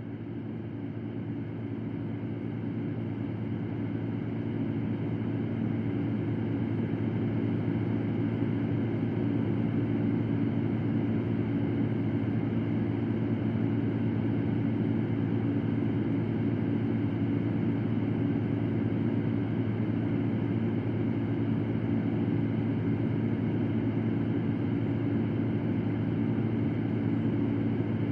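Electric fan running steadily, a low whirring hum over an even rush of air. It grows louder over the first several seconds, then holds level.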